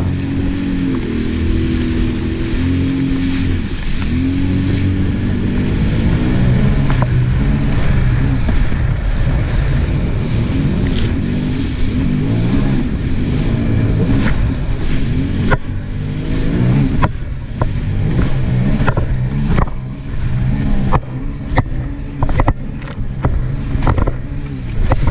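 Jet ski engine running, its pitch rising and falling as the throttle is opened and eased. In the second half come a series of short sharp thumps.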